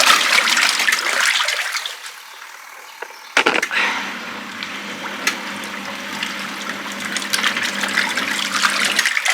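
Water sloshing in the wash tub of a twin tub washing machine, dying down over the first two seconds. About three and a half seconds in, a knock, and the wash motor starts with a steady hum, churning the water and clothes. It stops suddenly just before the end.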